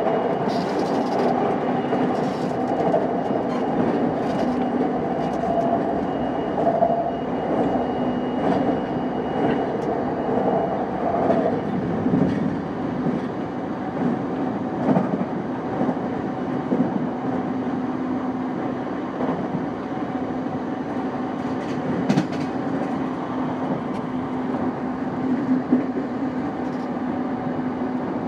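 E233-5000 series electric train running at speed, with a steady hum of its traction motors and rolling noise. A few sharp knocks come from the wheels passing over rail joints. A higher motor whine fades out about a third of the way in while the lower hum carries on.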